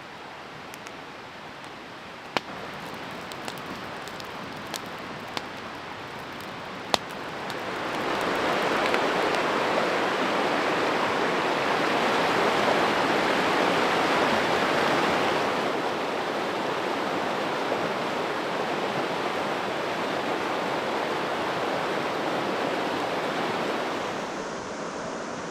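Rushing stream water, a steady hiss that swells loud about eight seconds in and eases a little after about fifteen seconds. Before it, a quieter hiss with a few sharp snaps.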